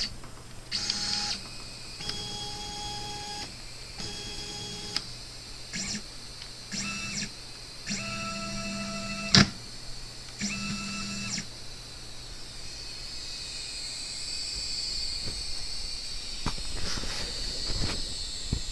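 Nema 23 stepper motors on a hobby CNC machine making a series of short moves: each is a steady whine at its own pitch that starts and stops abruptly, with one sharp click about nine seconds in. From about twelve seconds in comes a longer, steadier high-pitched run. The motors are driven by upgraded stepper drivers and are free of the rattling noise they used to make.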